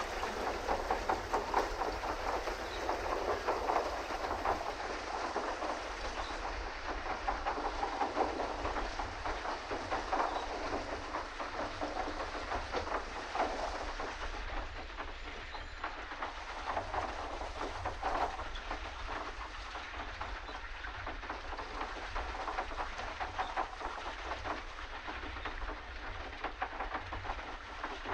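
Pedal boat's paddle wheel churning and splashing water in a continuous, uneven wash, with a low rumble underneath.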